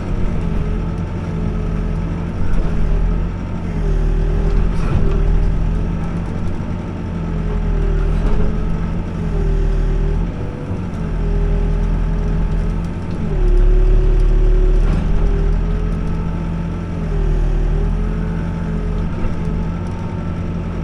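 Backhoe's diesel engine running steadily, its pitch dipping and recovering several times under load as the bucket works at a loose concrete slab, with a few knocks.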